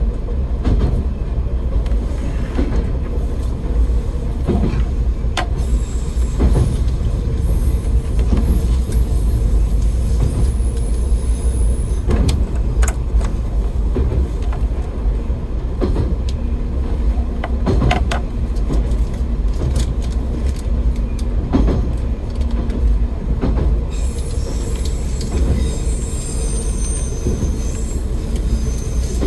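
AN-8800 diesel railcar running along the line: a steady low rumble of engine and wheels on the rails, with sharp rail-joint clacks every second or two. Near the end, high-pitched wheel squeal sets in.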